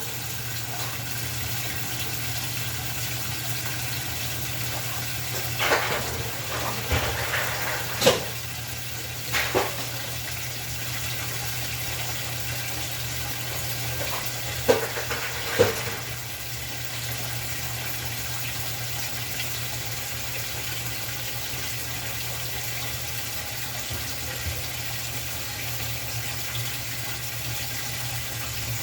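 GE top-load washer filling with water: a steady rush of water with a low hum under it. A few short knocks and clicks come between about six and sixteen seconds in.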